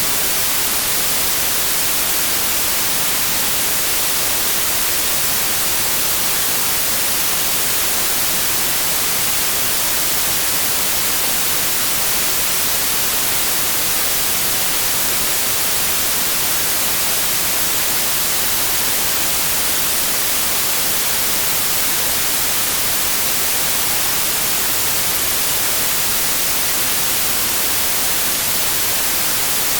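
Steady, unbroken white noise: an even, loud hiss with no change or events.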